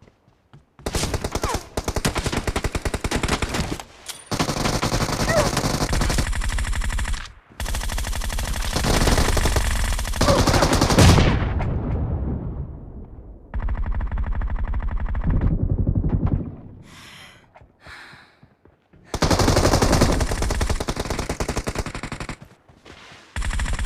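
Rapid automatic gunfire in a video game shootout: long bursts of several seconds each, broken by short pauses, about six bursts in all.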